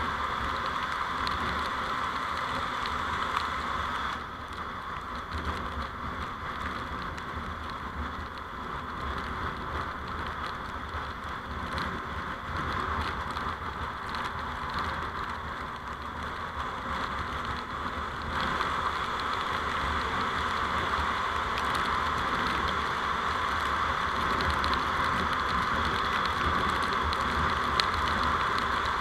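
Steady road and wind noise of a moving vehicle picked up by a dashcam, with a low rumble and light rattles; it drops a little in level about four seconds in and rises again past the middle.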